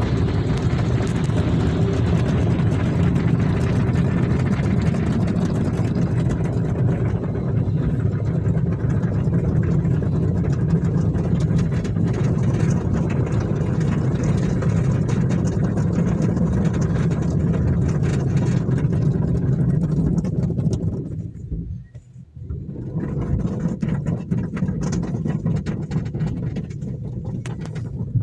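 Car engine running steadily with a low rumble. It drops away briefly about three quarters of the way through, then returns somewhat quieter.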